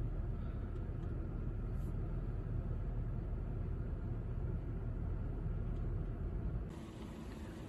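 Steady low rumble inside a car cabin from the Toyota Brevis's 2JZ-FSE straight-six idling with the air conditioning running. About seven seconds in, the rumble drops away and the sound gets quieter.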